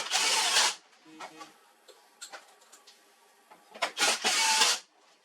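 HP LaserJet 4345 laser printer running, with two loud, even bursts of about a second each, one at the start and one about four seconds in, and scattered clicks between them.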